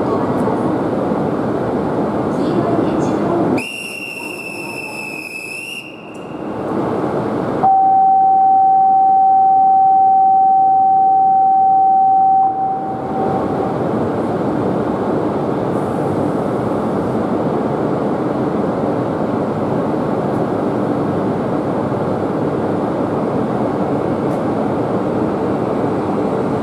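Shinkansen train noise at a station platform: a steady noise that breaks off for a high, whistle-like tone about four seconds in, then a loud, single steady tone lasting about five seconds, after which the steady train noise resumes.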